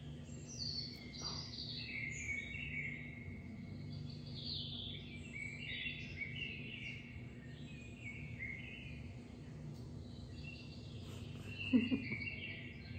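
Birds chirping and singing, many short calls overlapping, over a steady low hum.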